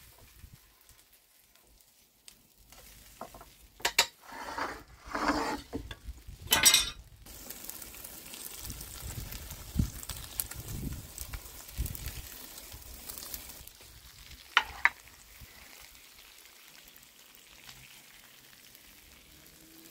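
Tomahawk steak and sausages sizzling in a pan of garlic and herbs in a very hot wood-fired oven, with sharp metal knocks and scrapes as the pan is handled, loudest about four and seven seconds in and again near fifteen seconds.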